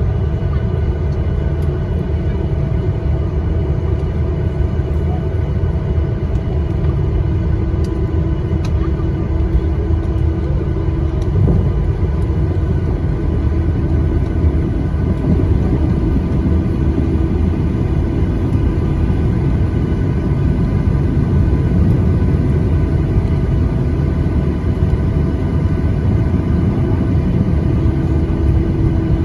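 Steady cabin noise of a Boeing 737-800 taxiing after landing: its CFM56 engines running at idle under a low rumble, with a few steady hums.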